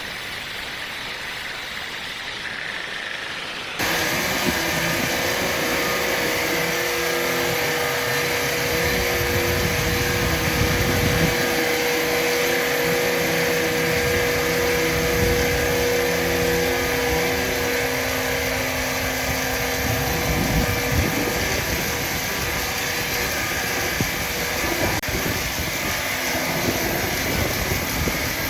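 Heavy machinery running steadily, with a held whine over a noisy din; the sound jumps abruptly louder about four seconds in.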